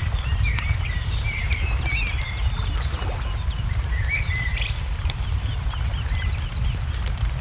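Wood fire crackling with scattered sharp pops over a steady low rumble, while small birds give short chirping calls, several in the first half and a cluster about four seconds in.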